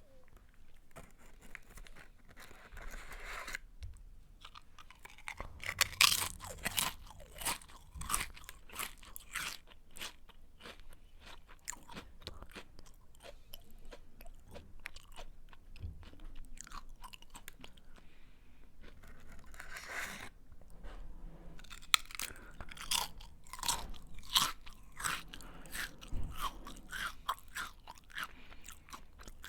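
A person biting into and chewing a crunchy snack close to the microphone, with crisp, irregular crunches. The crunching comes in two bouts, one about six seconds in and another about twenty seconds in, with softer chewing between them.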